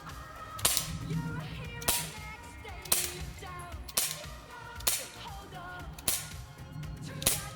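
Seven sharp shots from a small gun, about one a second, over background music.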